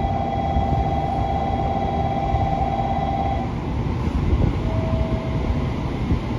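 Electric train running slowly into the platform with a low, steady rumble. A pulsing whine sounds over it and cuts off about three and a half seconds in, and a short tone follows about a second later.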